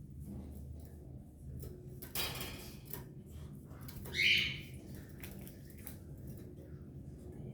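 Canary giving one short harsh squawk about four seconds in, after a brief rasping noise about two seconds in, with faint scattered clicks over a low hum.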